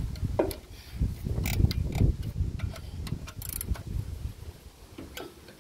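Hand socket ratchet clicking in short runs while undoing small 7 mm bolts on a generator casing. Low gusty wind rumble on the microphone sits underneath.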